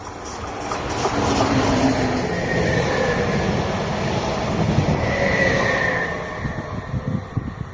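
A train passing close by, growing loud about a second in and fading near the end, with a high wheel squeal twice as it goes by.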